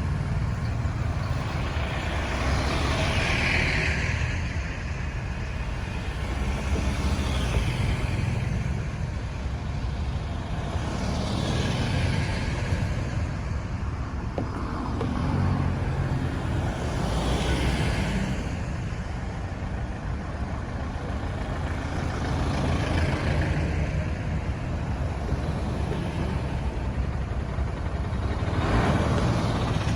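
Road traffic: a steady low rumble of engines and tyres, with a vehicle passing every few seconds.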